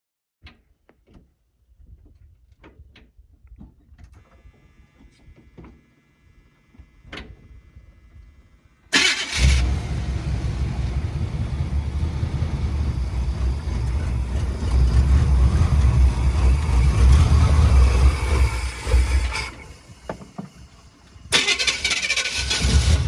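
Race truck engine running on open headers: after a few faint clicks it starts abruptly about nine seconds in and runs loud and rough for about ten seconds. It drops back briefly, then comes up loud again near the end.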